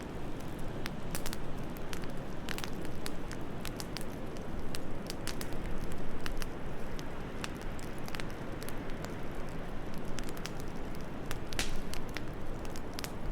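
Wood fire crackling, with frequent irregular sharp pops and snaps, over a steady low rush of wind.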